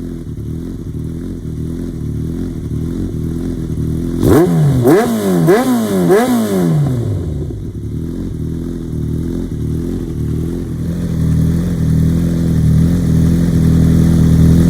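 Yamaha XJR1300's air-cooled inline-four running through an Asahina aftermarket full exhaust system. It idles, then gets four quick throttle blips about four to seven seconds in, each rev rising and dropping sharply. It then settles back to a steady run that grows louder near the end.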